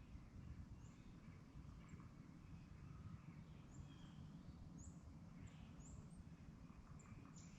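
Faint woodland ambience: scattered short, high chirps and calls of small songbirds over a steady low rumble.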